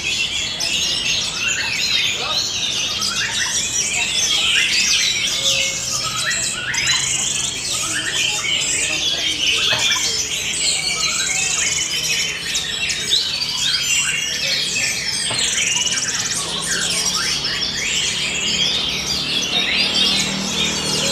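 Orange-headed thrush (anis merah) singing continuously, a dense, varied song of quick rising and falling whistled and chattering phrases, prized by bird keepers for the calls it weaves in.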